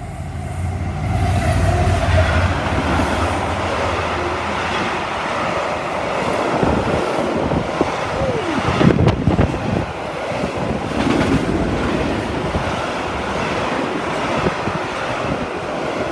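Colas Rail Class 70 diesel locomotive passing at the head of a log train, its deep engine hum strongest in the first few seconds. The timber wagons then roll by with knocks and brief wheel squeals around the middle.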